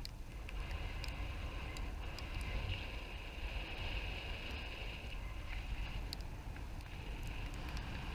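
Wind rumbling on the microphone with a steady hiss and scattered light ticks.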